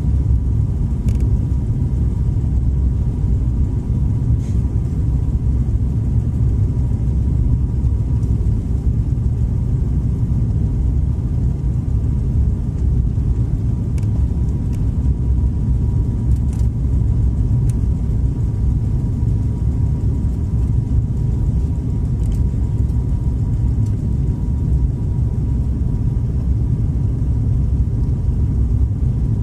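Airliner cabin noise: a steady low rumble with a faint constant whine and a few light ticks.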